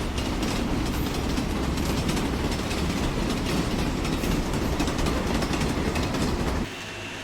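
A train running on rails: a steady rumble with wheel clatter that starts suddenly and cuts off near the end.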